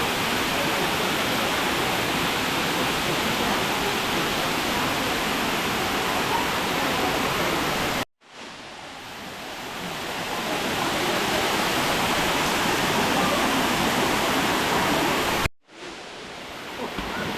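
Steady roar of the Kato Lampo waterfall, falling water rushing without a break. It cuts out abruptly twice, about halfway through and near the end, and each time swells back up over a second or two.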